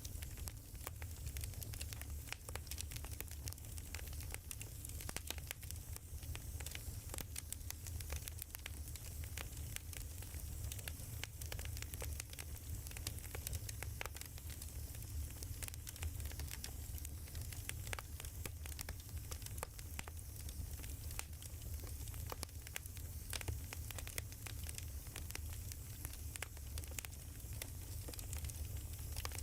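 Wood fire crackling: a dense, irregular stream of small pops and snaps over a steady low rumble of the flames.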